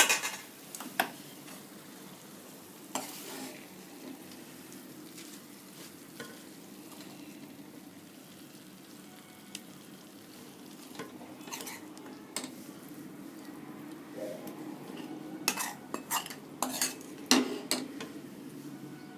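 A spoon clinking and scraping against a metal cooking pot as rice is spooned in, in scattered strokes with a busier cluster near the end, over a faint steady hum.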